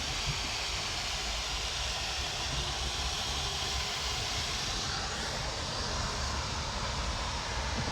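Waterfall in monsoon flow: a steady rush of falling water, with a low rumble underneath.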